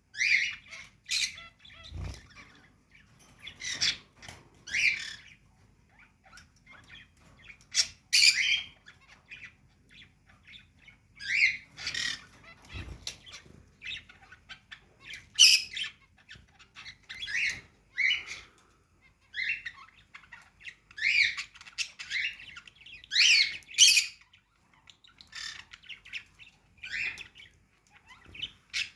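Pet cage birds chirping and squawking in short, sharp calls, one every second or two with brief gaps between.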